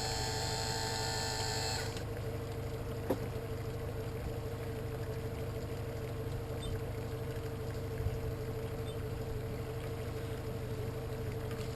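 Boat's motor running with a steady low hum and a steady mid tone, while a high electric whine with several tones stops about two seconds in.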